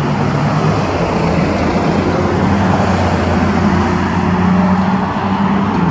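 A motor vehicle's engine running steadily, with a low hum and road or traffic noise.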